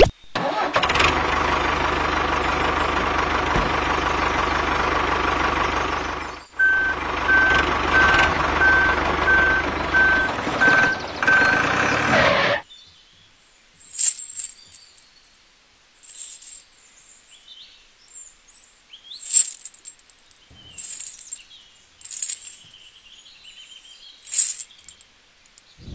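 Heavy vehicle engine running steadily, with reversing beeps about twice a second joining in partway through; it cuts off abruptly about halfway, leaving sparse faint bird chirps.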